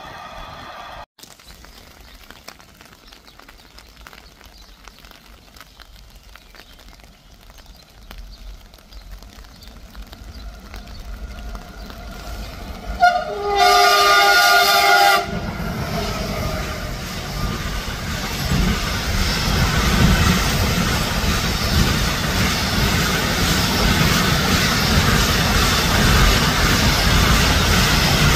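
Electric locomotive hauling an intermodal freight train approaches with a slowly growing rumble and sounds its horn, a steady chord of about two seconds, about halfway through. The train then passes close by with a loud, steady rolling of wagon wheels on the rails.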